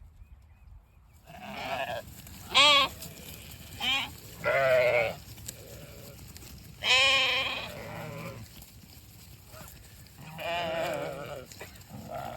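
Sheep bleating: about seven wavering calls one after another, some overlapping. The loudest comes about two and a half seconds in.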